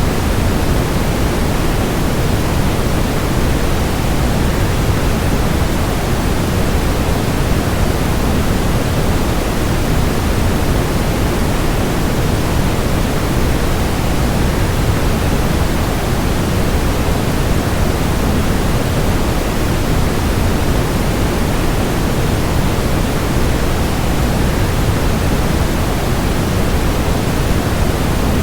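Waterfall sound blended with white noise: a steady, unchanging rush, deeper than a hiss.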